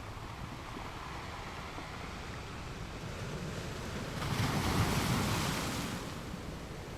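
Ocean surf on a beach: a steady wash of waves, with one wave breaking and rushing in about four seconds in, louder and hissier for about two seconds before easing back.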